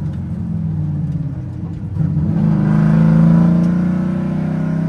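Drift car's engine easing off and then revving up hard about two seconds in, its pitch climbing and staying high.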